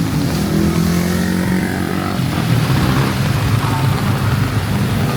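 Motor vehicle engines running in traffic, a steady low hum whose pitch shifts about two seconds in, over the even hiss of rain and wet road noise.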